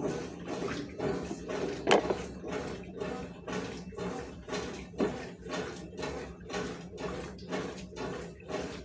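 Consul 12 kg washing machine agitating a load of towels: water sloshing back and forth in a steady rhythm of about two surges a second, with one sharper knock about two seconds in.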